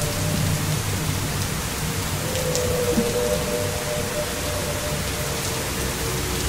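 Heavy thunderstorm rain pouring steadily onto pavement and trees, with a low rumble underneath.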